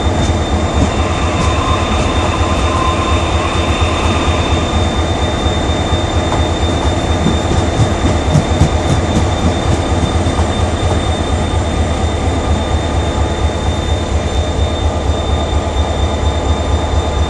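ITX-Cheongchun double-deck electric train departing: steady rumble of its cars and wheels on the rails, with a faint wheel squeal in the first few seconds.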